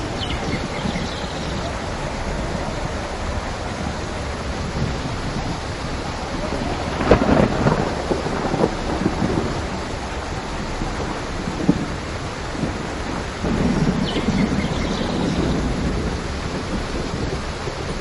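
Steady rain with thunder: a sharp crack about seven seconds in that rolls on into a rumble, then more low rumbling in the second half.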